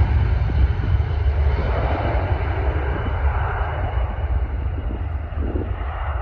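Jet aircraft engines at takeoff power during the takeoff roll: a steady, loud rumble that slowly fades over the seconds.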